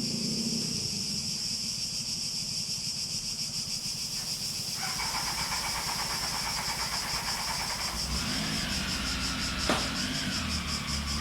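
Cicadas buzzing in a steady, high, fast-pulsing chorus. Partway through, a low rumble and a wavering mid-pitched drone join in behind it, like a vehicle on a nearby road, and there is one sharp click near the end.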